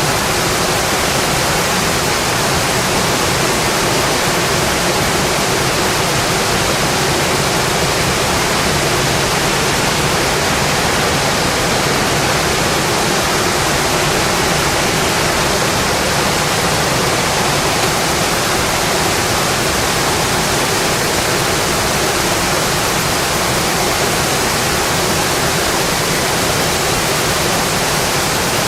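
Steady rain falling, an even, continuous hiss that does not change.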